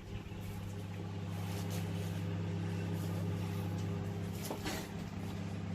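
Microwave oven running with a steady low hum, a few faint ticks over it.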